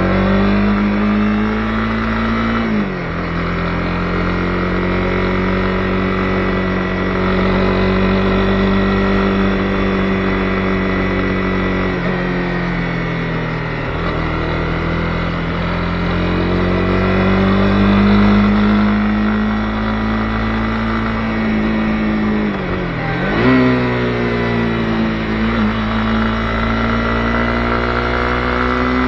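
Honda CB250R's single-cylinder engine running steadily under way. Its pitch dips sharply at a gear change about three seconds in, and again about 23 seconds in before climbing back higher.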